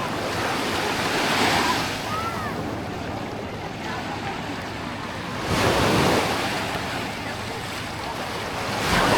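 Small waves of a calm sea breaking and washing up the beach, each break swelling up and dying back, about every four seconds.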